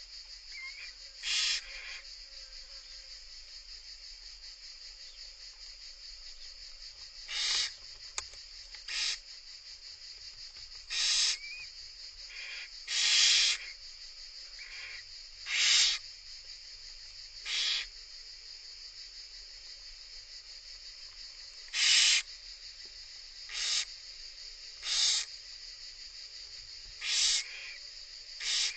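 Barn owls in a nest box giving about a dozen short, rasping hiss calls at irregular gaps, over a steady high hiss.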